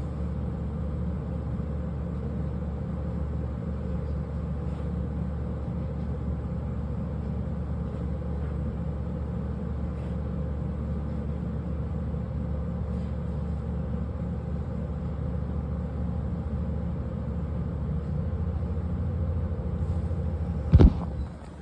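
A steady low rumble with a hum in it, with one sharp knock near the end.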